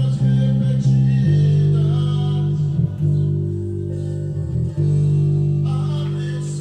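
Guitar playing held chords or notes that change every second or two.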